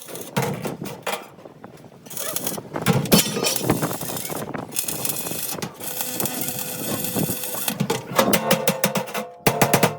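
Sheet-metal workshop noise: irregular clattering and a stretch of steady hiss, then a fast run of sharp strikes near the end, over a faint ringing tone.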